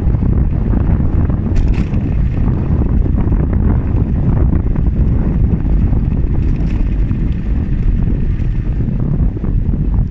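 Wind buffeting the microphone while riding a bicycle: a loud, steady low rumble.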